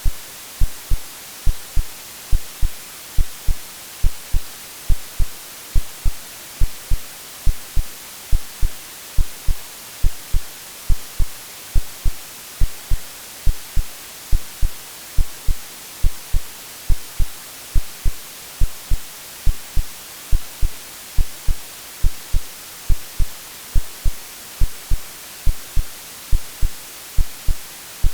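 Recorded heartbeat sound, a steady run of low double thumps (lub-dub), over a continuous white-noise hiss, mixed to imitate the sound heard in the womb.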